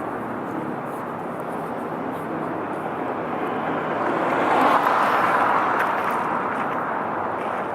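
A vehicle passing by outdoors: a steady rushing noise that grows louder to a peak about five seconds in, then fades.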